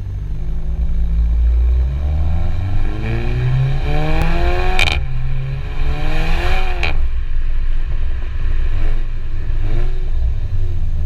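Seat Leon Cupra 280's turbocharged four-cylinder engine revved through its exhaust: two long pulls rising in pitch, each cut off sharply with a short crack at the top, then two quick blips of the throttle, over a low exhaust rumble.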